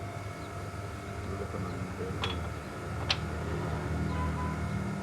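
Engine running steadily with a low hum, and two sharp metallic clinks about a second apart in the middle.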